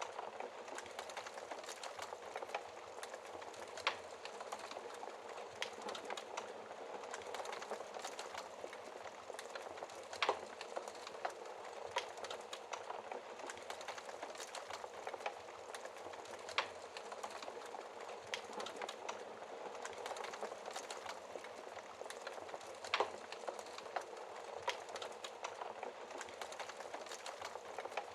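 Wood fire crackling in a fireplace: a steady soft hiss broken by irregular snaps and pops, a few of them sharper and louder than the rest.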